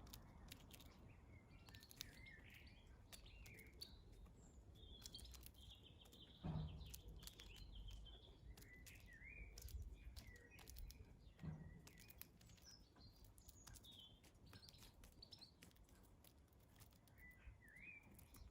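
Faint chirping of small garden birds: short, scattered calls throughout, with two soft low thumps, one a little after six seconds in and one about eleven and a half seconds in.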